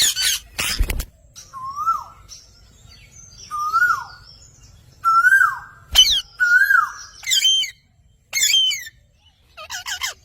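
A pet parrot calling: a run of short harsh screeches, then about four rising-and-falling whistled notes spaced roughly a second and a half apart, with more screeches in between.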